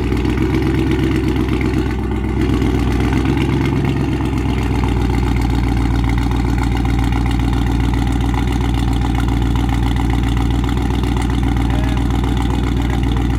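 Dodge Charger with catless Stainless Works mid pipes, a mid-muffler delete and the resonators kept, idling steadily just after being started. Its exhaust note gets a little louder about two seconds in and then holds even.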